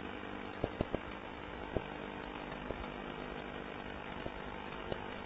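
Refrigerator compressor running with a steady low hum, and a few small faint clicks scattered through it.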